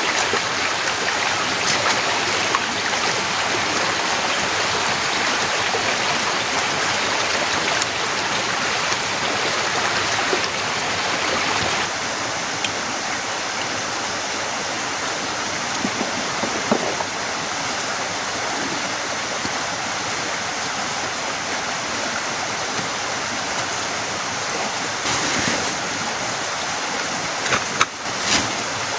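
Heavy rain pouring down in a steady, dense hiss. The tone shifts abruptly about twelve seconds in, and a couple of sharp knocks come near the end.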